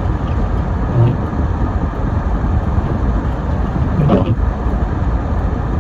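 Steady low rumble of a car being driven, heard from inside: engine and tyre noise. A short higher-pitched sound comes about four seconds in.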